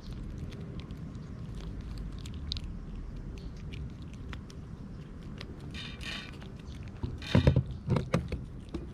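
Stray cats eating, with small crunching and clicking chewing sounds over a steady low background rumble; a few louder thumps come about seven to eight seconds in.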